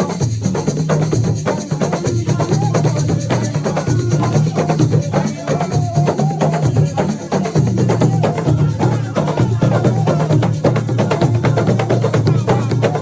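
Assiko music: hand drums, shakers and wood-block-like clicks playing a fast, steady rhythm over a heavy low bass, with a wavering melody line on top.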